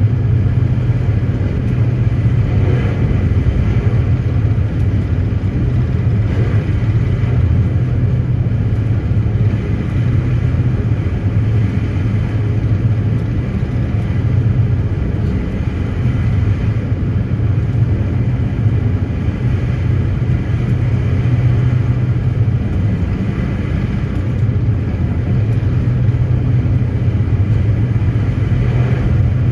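Passenger ferry's engines droning steadily, a constant low drone with a hiss over it.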